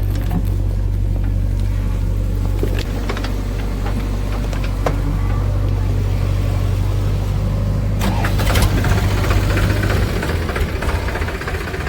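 Heavy diesel machinery engine running steadily, with a few light clanks. Its note shifts and rises briefly about eight seconds in.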